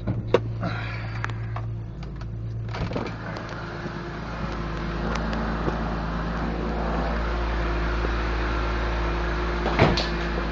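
BMW E46 M3's 3.2-litre S54 straight-six idling cold, steady and even at just above 1,000 rpm. A few clicks and knocks in the first three seconds, the engine sound opening up about three seconds in, and a single sharp knock near the end.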